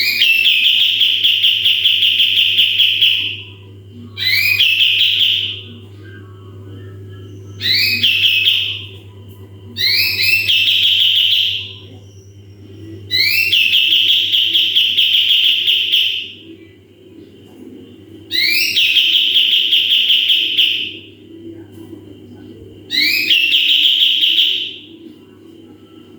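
Kapas tembak bulbul singing its 'tembakan' bursts: seven loud phrases, each opening with quick rising notes and running into a rapid trill held for one to three seconds, with short pauses between. A steady low hum runs underneath.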